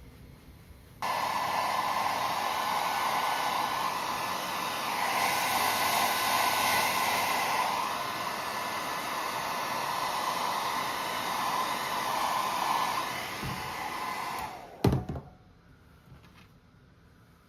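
Hair dryer blowing steadily, switched on about a second in and off near the end, followed by a single thump.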